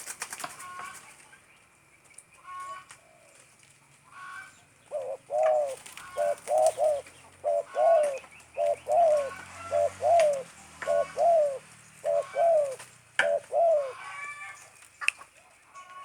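Spotted dove (tekukur) cooing in a stuttering 'gagap' pattern: starting about five seconds in, a run of about a dozen short, arched coos, several doubled or tripled, that ends about fourteen seconds in. Fainter, higher chirps come and go between the coos.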